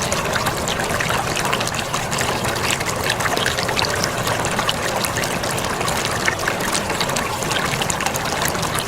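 Running water splashing and trickling: a steady, dense spatter without let-up.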